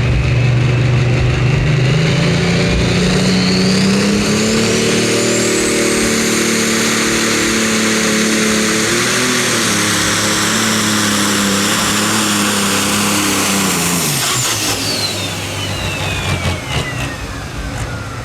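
Pro Stock pulling tractor's turbocharged diesel engine at full power under load, its turbocharger whine climbing high over the first few seconds and holding. About fourteen seconds in, the engine shuts down and the turbo whine falls away steadily as it spools down.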